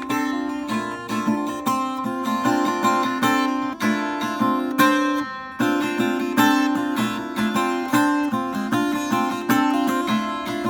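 Acoustic guitar played with repeated strums and plucked chords, without singing.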